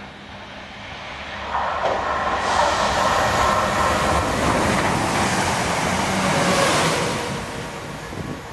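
Chiltern Railways diesel multiple unit passing through the station: engine and wheel noise build up, are loudest for several seconds as it goes by, then fade as it recedes.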